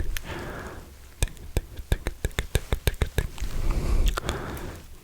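Wet mouth sounds right at the microphone: an irregular run of sharp tongue and lip clicks, with two short stretches of breathy hiss.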